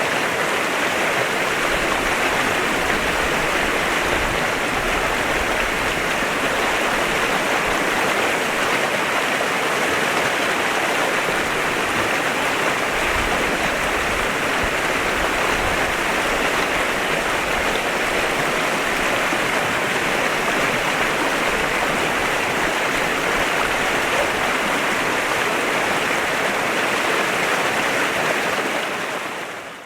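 A clear river flowing in a steady, even rush of water that fades out in the last second.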